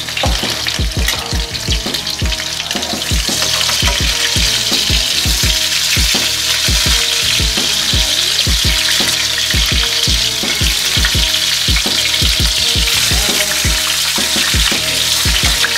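Chicken wings sizzling as they fry in olive oil in a skillet. The hiss gets louder about three seconds in, with frequent short low knocks throughout.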